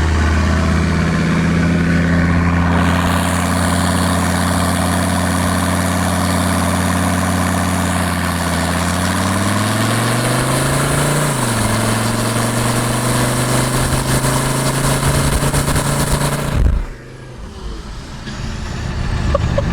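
1984 Mercedes-Benz 300D's turbocharged five-cylinder diesel under acceleration: the engine note holds steady, rises, and drops at a gear change about eleven seconds in, then runs steady in the next gear until it cuts off near the end. It is shifting better, which the owner takes for the engine having cleared out gummed-up crud.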